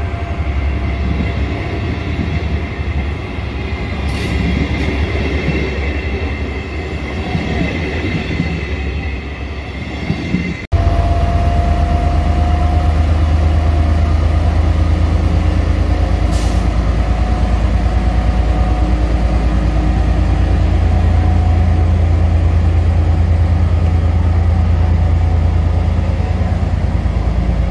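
Regional passenger coaches rolling out past the platform over the rails. After a sudden break about ten seconds in, an FS D.445 diesel locomotive's engine is running with a loud, deep, steady rumble, and a brief high tone sounds just after the break.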